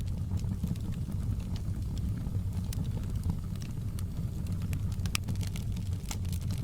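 Logs burning in a fireplace, crackling: irregular sharp pops and snaps over a steady low rumble of the fire.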